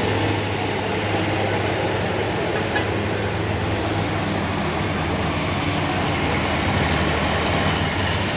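Heavy diesel truck engine running steadily at a constant low pitch, with no revving up or down.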